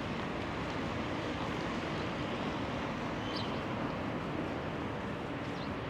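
Steady outdoor noise of road traffic mixed with wind on the microphone. A couple of faint, short high chirps come through about halfway and near the end.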